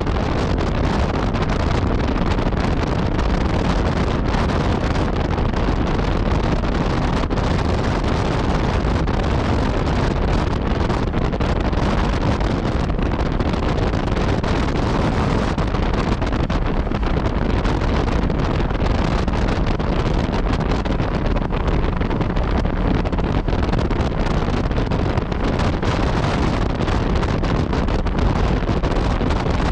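Yamaha MT-09 Tracer's inline-three engine through an Akrapovic exhaust, running at a steady road speed with no marked revving, under heavy wind noise buffeting the microphone.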